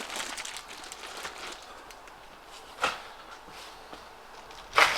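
Light handling noises: faint rustling with a sharp knock about three seconds in and another near the end, as whole processed chickens are handled and set on a kitchen scale.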